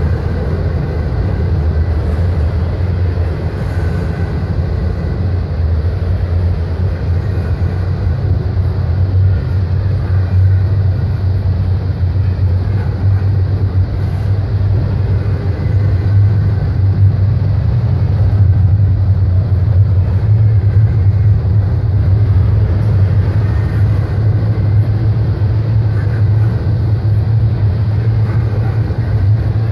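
BNSF double-stack intermodal container train's well cars rolling past close by: a steady rumble of steel wheels on the rails.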